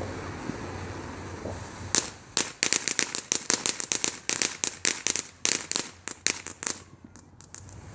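Backyard consumer firework going off as a rapid run of sharp crackling pops, several a second, starting about two seconds in and thinning out near the end; wind noise on the microphone before it starts.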